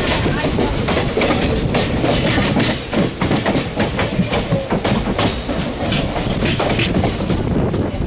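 Train running on rails: a steady rumble with irregular clattering clicks of the wheels over the rail joints.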